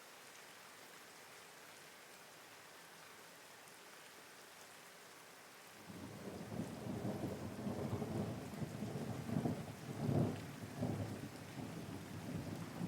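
Steady rain hiss, joined about six seconds in by a sudden, long rumble of thunder that swells and is loudest a little past the middle.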